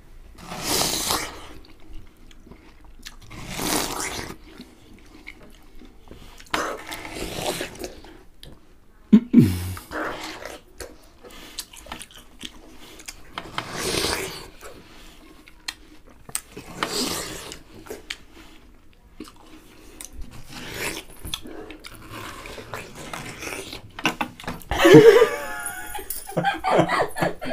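Two people eating watermelon with their faces in the slices and no hands: wet chewing and biting, in bursts every few seconds. Laughter breaks out near the end.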